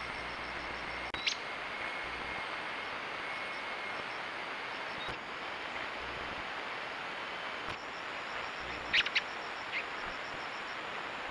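Steady outdoor hiss with a few short, sharp bird chirps: one a little over a second in and three close together near the end.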